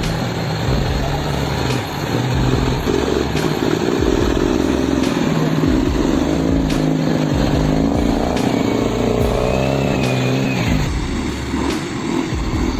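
A heavy truck's engine running under load on a rough dirt track, over background music with a regular beat.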